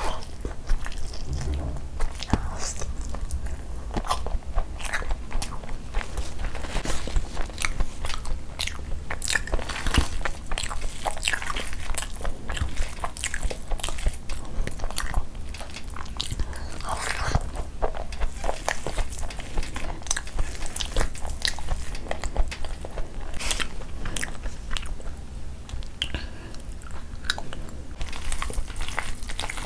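Close-miked eating: wet chewing and mouth smacks, irregular and continuous, with the soft squelch of fingers mixing khichdi rice into curry gravy by hand.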